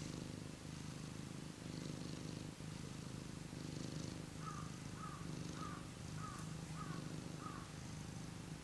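Domestic cat purring steadily, with a run of six short high chirps about half a second apart in the second half.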